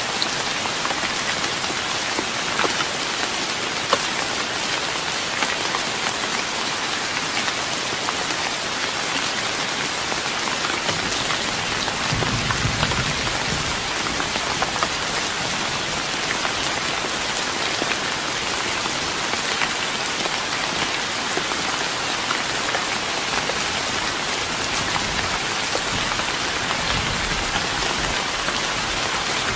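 Steady rain falling on a wooden deck, an even patter with scattered sharper drop ticks.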